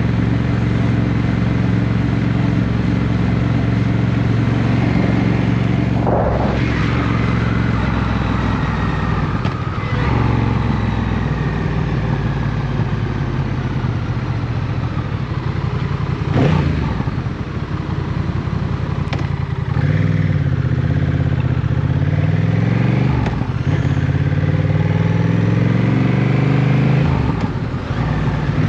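Motorcycle engine running on the move, its pitch falling and rising several times with throttle and gear changes, with a few brief sharp noises over it.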